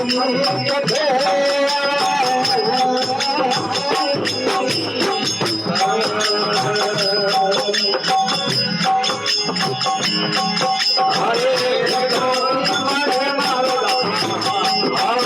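Devotional bhajan music: a wavering melody line over fast, steady shaker-and-jingle percussion.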